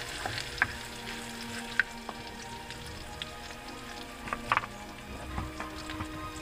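Garlic and onion sizzling in hot canola oil in an aluminium wok, with a few sharp knocks and scrapes of a wooden spatula against the pan.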